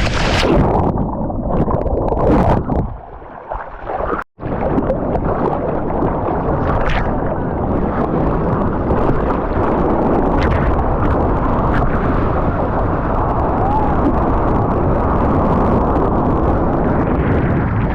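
Loud rushing water and wind buffeting the microphone, as on a boat moving over open sea, cut off abruptly about four seconds in and then carrying on steadily.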